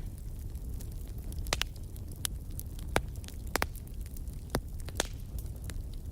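Wood fire in a fireplace crackling: irregular sharp pops over a low, steady rumble of the burning fire.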